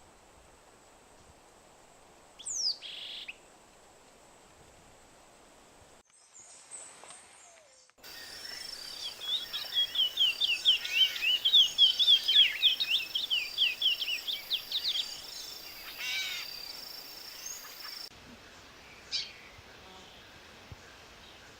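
Wild birds calling: a single down-slurred call about two and a half seconds in, then from about eight seconds a loud, fast song of many short down-sweeping notes lasting about ten seconds, and a few sharp single notes near the end.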